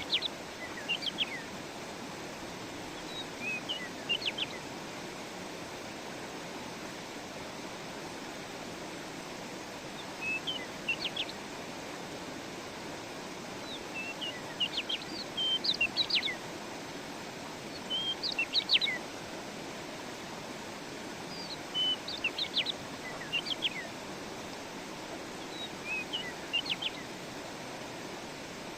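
A small songbird singing short phrases of quick high chirps every few seconds, about eight phrases in all, over the steady rush of a running stream.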